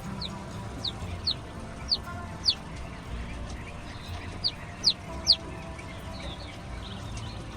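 Chicks peeping: short, high, downward-sliding peeps, about eight in the first five and a half seconds, then fainter cheeping toward the end.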